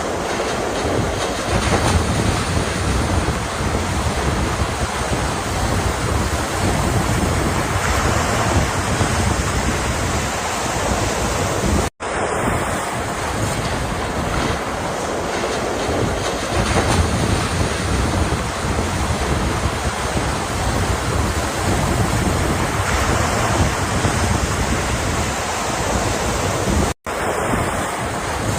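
Ocean surf breaking continuously with a steady rushing roar and deep rumble, with wind buffeting the microphone. Twice the sound drops out for a split second, near the middle and near the end.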